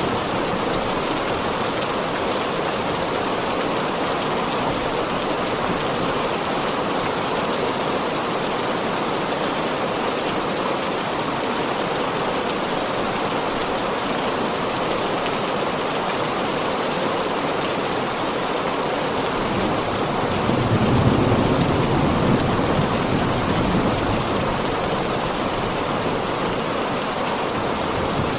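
Heavy rain falling steadily, with a low rumble of distant thunder swelling and fading about two-thirds of the way through.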